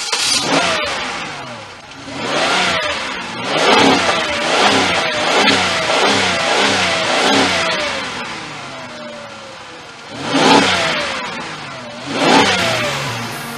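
Hot-rod car engine being blipped on the throttle: a string of quick revs, each falling back toward idle, then two more revs near the end.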